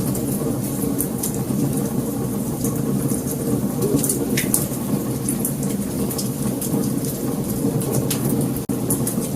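Wood fire burning: a steady low rumble of flames with frequent sharp crackles and pops. The sound drops out for an instant near the end.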